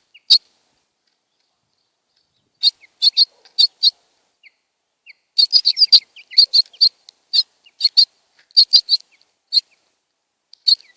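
House sparrows chirping in short, sharp single notes. One chirp comes right at the start, then after a pause of about two seconds a run of chirps that grows thick and fast in the middle and thins out near the end.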